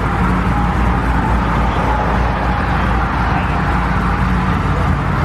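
A car engine running steadily close by, low-pitched and loud, holding an even pitch without revving.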